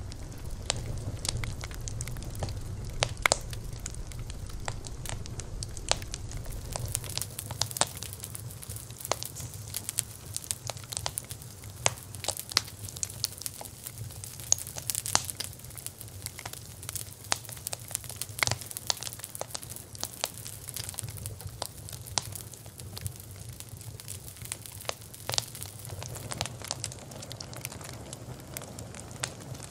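Campfire burning: wood crackling with frequent irregular sharp pops over a steady low rumble.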